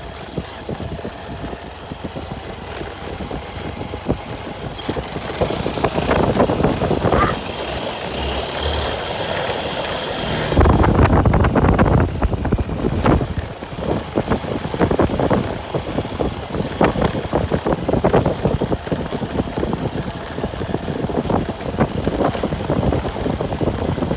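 Vehicle running along a rough road: engine and road noise with frequent knocks and rattles. It grows louder for a couple of seconds about ten seconds in.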